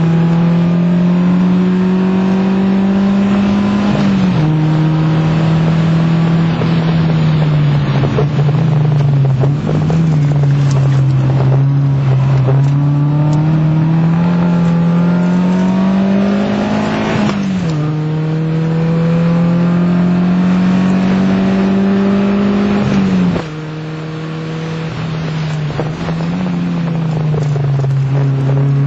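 FIAT Punto Mk1's 1.2-litre 16-valve four-cylinder engine pulling hard on track, heard from inside the cabin. Its note climbs slowly and then drops sharply several times as the car goes through gear changes and corners, with the loudness dipping briefly near the end as the throttle comes off.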